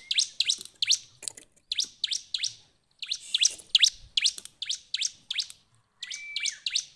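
Bar-winged prinia (ciblek) singing: a fast run of sharp, high chirps, about three or four a second. The song breaks off briefly near the middle, and a short held whistle comes near the end.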